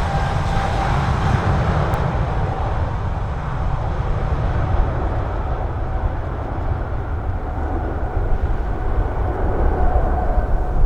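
Boeing 777-200's twin turbofan engines at takeoff thrust: a heavy, steady low rumble whose higher whine fades over the first few seconds. Strong gusty wind buffets the microphone.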